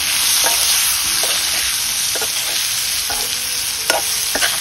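Chopped onion, taro stems and smoked pork sizzling steadily in hot oil in a wok, with a spatula scraping and knocking against the pan every second or so as it is stirred.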